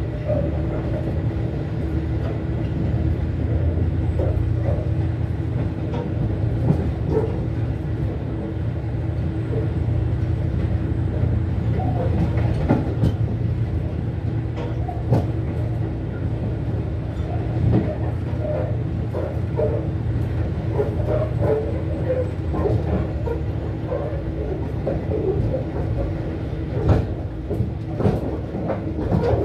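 Train running at speed, heard from aboard: a steady low rumble of wheels on rail with a steady hum, scattered clicks and creaks, and a few sharp knocks, the loudest near the end.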